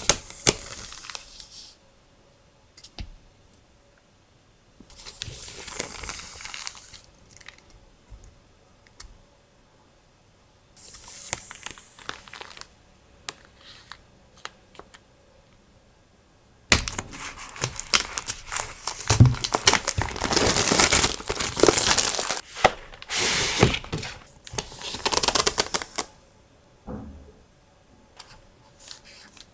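Paper and plastic packaging being handled: a few short bursts of rustling and crinkling, then from about seventeen seconds in a longer stretch of dense crinkling with many small clicks.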